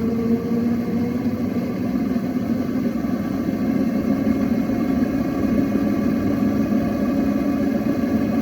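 Motorbike motor running steadily. Its pitch rises a little in the first second, then holds.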